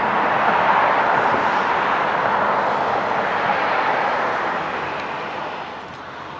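Jet aircraft engine noise, a steady loud rush that fades away over the last two seconds.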